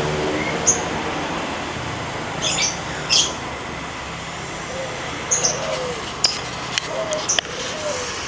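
Small birds chirping now and then over a steady outdoor hiss, while an engine's hum fades out in the first second.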